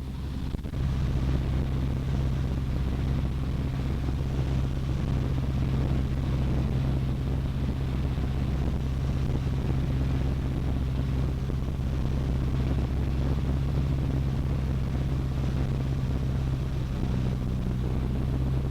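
Cessna 152's four-cylinder Lycoming O-235 engine and propeller drone heard inside the cockpit, running steadily at an even, low pitch.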